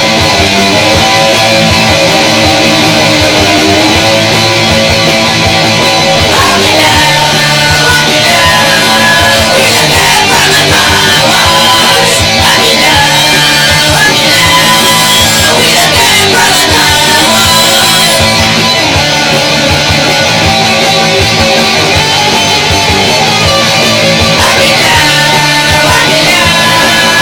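Loud rock music from a band with electric guitars, running steadily throughout, with bending guitar or vocal lines in the middle.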